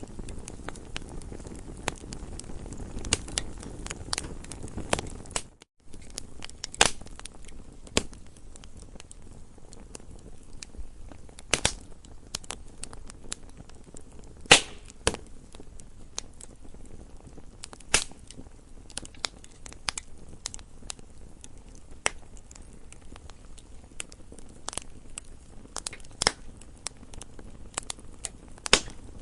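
Campfire crackling, with many irregular snaps and a few much louder pops, the loudest about halfway through. A low rumble sits under the first few seconds before the sound drops out for a split second near six seconds in.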